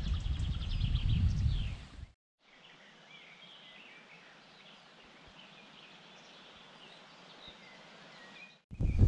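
Small birds chirping and calling in short scattered notes over a faint steady hiss. For the first two seconds a loud low rumble runs underneath them and cuts off abruptly.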